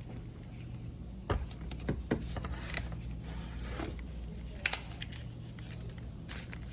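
Light, scattered clicks and ticks of a shifter mechanism being handled as its Spectra line loop is pulled to put the drive into reverse, over a steady low hum.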